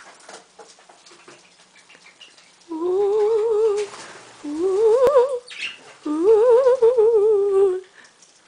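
A person humming in three wavering phrases, the last the longest. Faint scattered clicks come before and between them.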